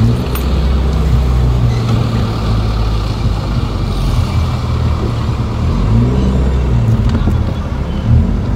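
Car engine running while the car is driven, heard from inside the cabin, its low hum dipping and rising in pitch a few times.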